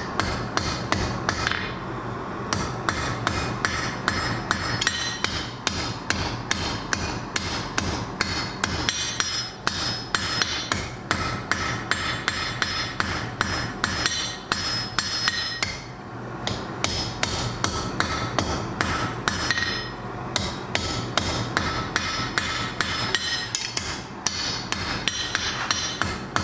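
Blacksmith's hand hammer striking hot flat bar stock on an anvil in a steady rhythm of about three blows a second, each a sharp clang, with brief pauses now and then: forging the shoulders and shaft of a small Thor's hammer pendant.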